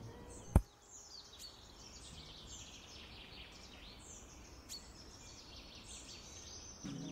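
Birds chirping and singing in repeated short calls and trills, broken by one sharp, loud click about half a second in and a fainter click near the five-second mark. Music comes back in near the end.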